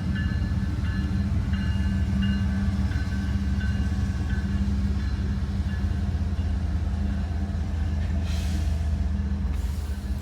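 CSX freight train's diesel locomotives running with a steady low drone as the loaded hopper train pulls out, with faint high squeals coming and going in the first few seconds and two short hisses near the end.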